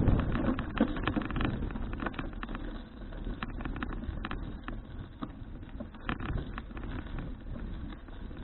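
Wind buffeting the action camera's microphone while riding a folding bicycle, over a steady low rumble, with many scattered small clicks and rattles from the bike.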